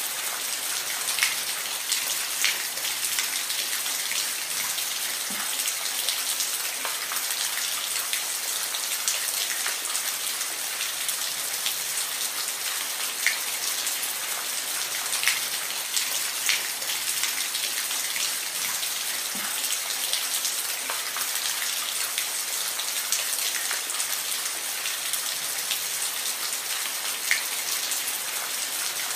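Steady rain falling on a surface, with individual drops ticking sharply here and there over the even hiss.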